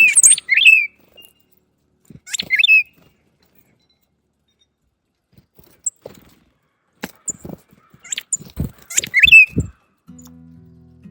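Small songbirds at a seed feeder giving short, sharp chirps in three bouts, with scattered sharp knocks; the loudest knocks come together with the last bout of chirps. Soft music begins near the end.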